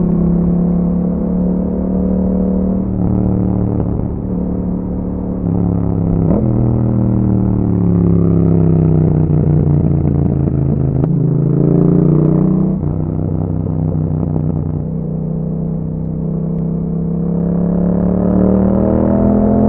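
2021 Yamaha MT-07's 689 cc parallel-twin engine breathing through an Akrapovic exhaust with a dB killer, heard while riding. The engine note rises and falls with the throttle, a long slow fall in pitch in the middle, with several abrupt jumps in pitch like gear changes.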